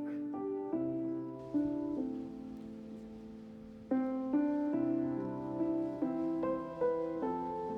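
Background music: gentle solo piano playing a slow melody with sustained chords.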